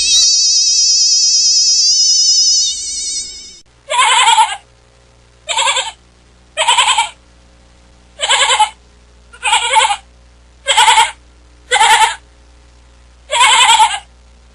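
A loud wavering electronic tone fades out about three and a half seconds in. Then a farm animal bleats eight times in short quavering calls, roughly a second apart.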